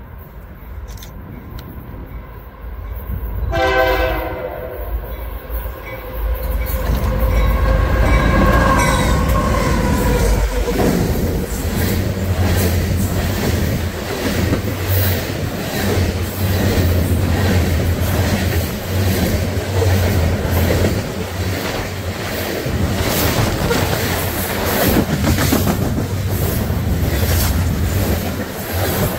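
Train horn sounds a short blast about four seconds in and a longer blast a few seconds later, then the train passes with a steady rumble and a clickety-clack of wheels over the rail joints.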